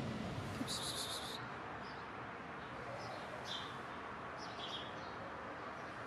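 Birds chirping in the background over steady outdoor noise: a quick run of high chirps about a second in, then scattered short chirps.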